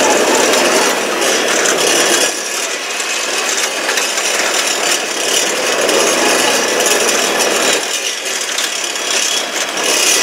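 International 225L tractor running while driving, a loud steady engine note with rattling and clatter, easing slightly about two seconds in and again near the end.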